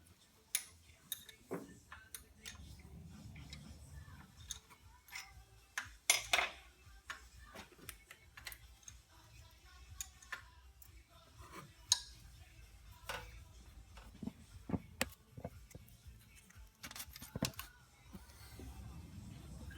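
Irregular metallic clinks and knocks of hand tools on engine parts, with the loudest knocks about 6 and 12 seconds in.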